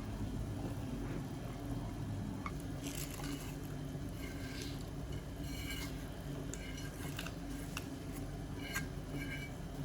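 Kitchen handling sounds: scattered small clinks and taps of dishes and utensils, mostly in the second half, over a steady low hum.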